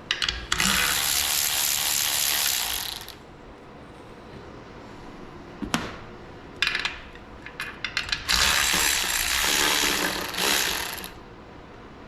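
A ratchet running out valve cover bolts in two runs of about three seconds each, with a few sharp metal clicks between them.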